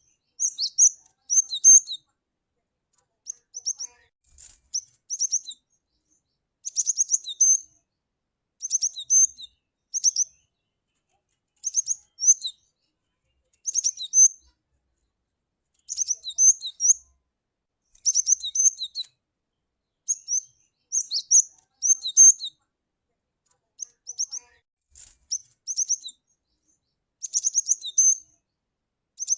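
Cinereous tit (glatik batu) calling: short bursts of high, quick chirping notes repeated every second or two, with clean silence between the bursts.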